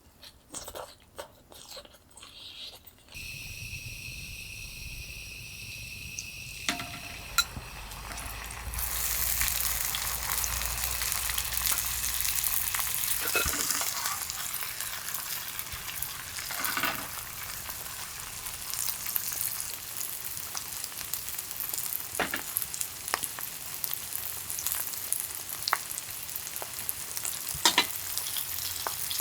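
Food sizzling and frying in a hot pan, the sizzle swelling to a steady hiss about a third of the way in, with scattered small clicks and taps.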